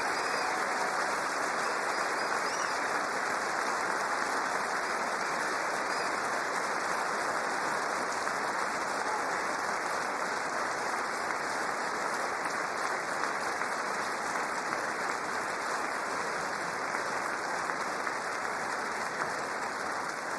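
Large audience applauding steadily, a long, dense round of clapping that eases off slightly near the end.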